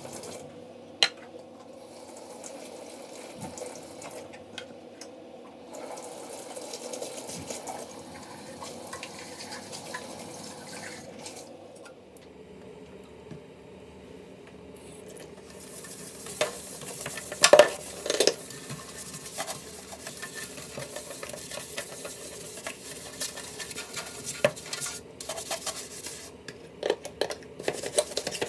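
Dishes and cutlery clinking and knocking, with a utensil stirring in a pan. There is a sharp clink about a second in, and the loudest knocks come a little past halfway. From just past halfway, food sizzles in the pan as a steady hiss under the clatter.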